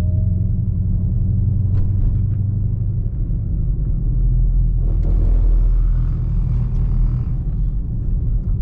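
Low, steady rumble of a car's engine and tyres heard from inside the cabin while driving in slow traffic. A louder rushing noise swells and fades from about five to seven seconds in.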